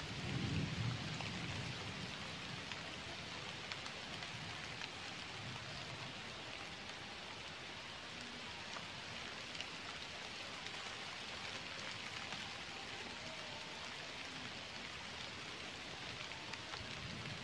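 Steady rain falling on leaves and a small stream: an even hiss of rain with scattered individual drop ticks. A brief low rumble sounds in the first second.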